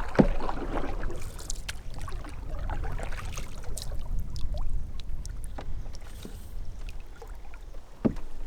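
Canoe on the move: light water splashes and small knocks scattered over a steady low rumble, with two sharper knocks, one just after the start and one near the end.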